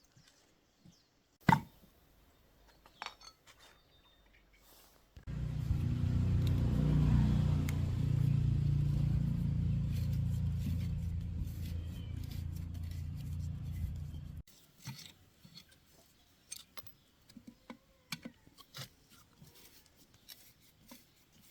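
Electric motor of a banana slicer running steadily with a low hum for about nine seconds, starting and cutting off abruptly. Before and after it there are light clicks and knocks from handling, with one sharp click near the start.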